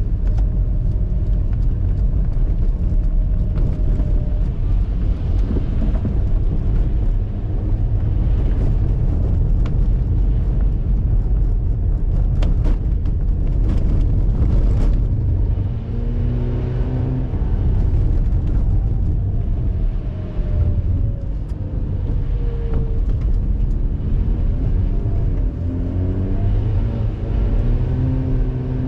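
Mazda RX-8's twin-rotor Renesis rotary engine under load on track, running loud and steady at first, then from about halfway the revs repeatedly fall and climb again as the car brakes, shifts and accelerates.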